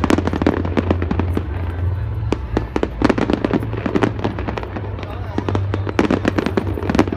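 Fireworks display: rapid, overlapping bangs and crackles of shells bursting, several a second, over a steady low hum.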